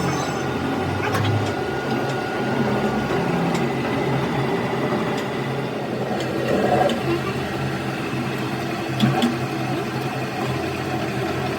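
An engine idling steadily, with a few light metallic clicks and a brief louder knock about nine seconds in.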